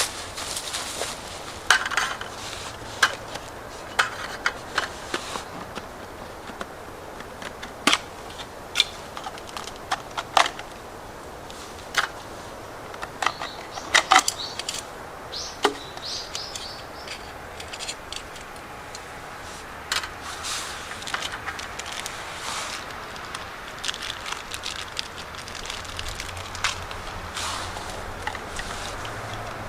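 Scattered sharp clicks and knocks at irregular intervals over a low steady background.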